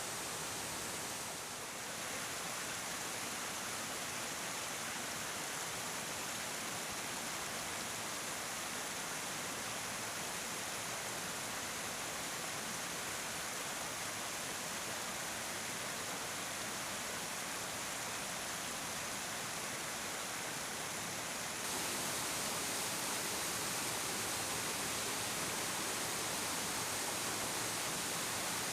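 Steady rushing of water from a large waterfall, a dense even roar with no breaks; it gets slightly louder about 22 seconds in.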